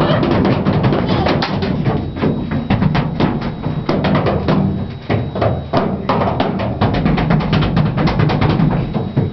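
Rapid, irregular banging and drumming on percussion, many strikes close together.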